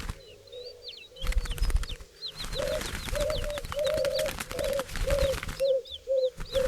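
Turtle dove purring in a run of short, low, repeated notes, about two a second, from a couple of seconds in, while small birds chirp high and fast throughout.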